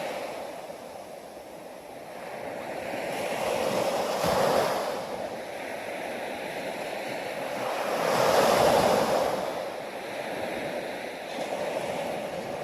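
Ocean waves breaking on the shore, the surf swelling and falling back in slow surges, the two biggest about four seconds in and near eight to nine seconds.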